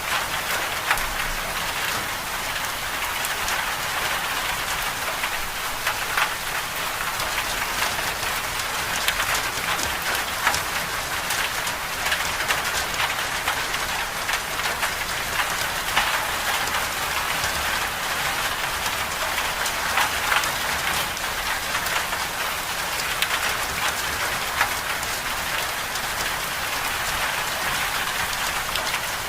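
Steady hiss of storm rain falling, sprinkled throughout with many small sharp ticks of individual drops striking a surface.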